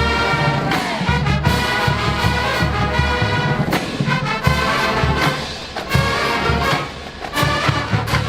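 Marching band playing: brass horns in sustained chords over deep, regular drum beats.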